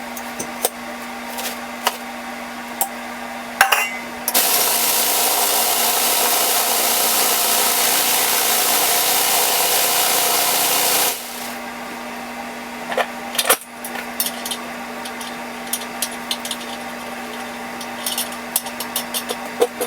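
Workshop tool noise on metal parts: a steady machine hum with scattered clicks and taps, and about four seconds in a loud, even hiss that runs for roughly seven seconds and stops abruptly.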